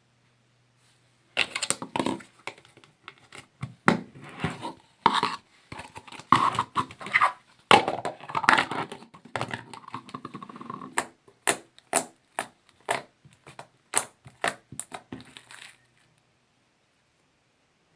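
Hands squeezing, stretching and poking homemade slime, making a fast, irregular run of pops, clicks and crackles that starts about a second and a half in and stops near the end.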